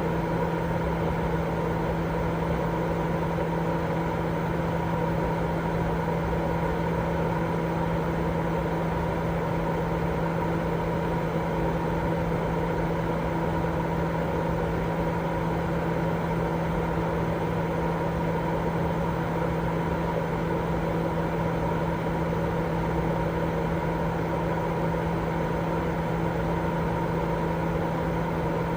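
Continuous baby-sleep white noise: an even, unchanging rushing sound with a steady low hum and a few fainter steady tones running through it, like a machine left running.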